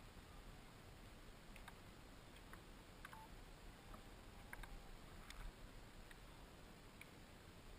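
Near silence: faint background hiss with a scattering of faint, short ticks or chirps from about a second and a half in until near the end.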